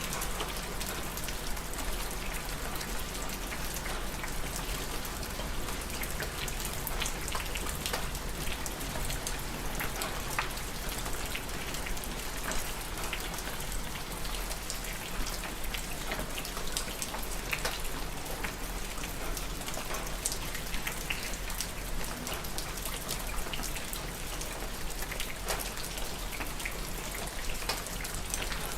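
Steady rain falling, with many separate drops ticking against a hard surface over an even hiss of rainfall.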